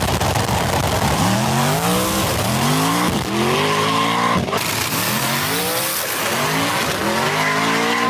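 Car engine revving in repeated rising sweeps, about one a second, each cutting off and climbing again, over a steady hiss of tyre noise.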